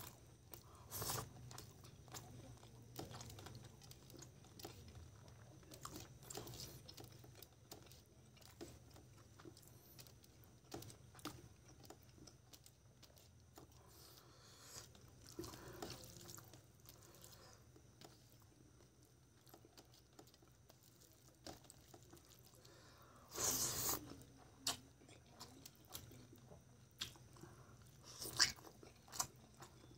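Close-up chewing and wet mouth sounds of someone eating rice and chicken curry by hand, with scattered small clicks and smacks. There is a louder burst about three quarters of the way through.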